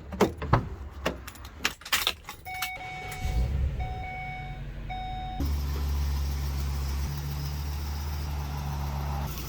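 Rental box truck being got into and started: clicks and clunks of keys and door, a warning chime beeping three times, then the engine catching and idling with a steady low hum that steps up a little about five seconds in.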